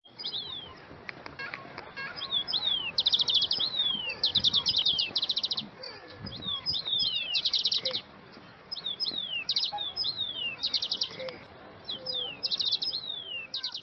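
Small songbirds singing: quick buzzy trills of rapid notes alternating with short downward-slurred whistles, repeated in phrases every second or so.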